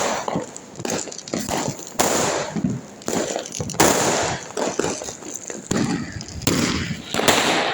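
Diwali fireworks and firecrackers going off: a string of sharp bangs, about one every second or two, each trailing off in a crackle or echo.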